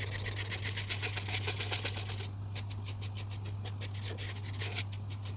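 Coloring tool scratching back and forth on paper in quick, even strokes. They run dense, pause briefly a little past two seconds, then come about five a second and stop just before the end, over a steady low hum.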